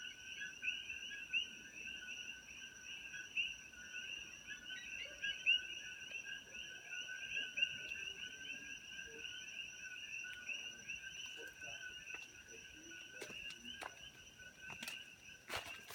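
Chorus of many coqui frogs calling continuously, their two-note "co-qui" calls overlapping, with a thin steady high tone above them.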